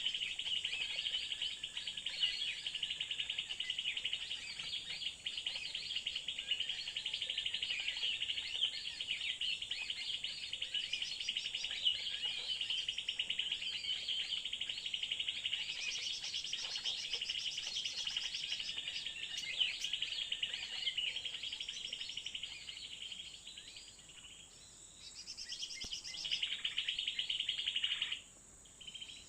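Birds calling continuously in fast, chattering trills, over a steady high-pitched drone. The calling thins out for a moment, swells again, then stops abruptly shortly before the end.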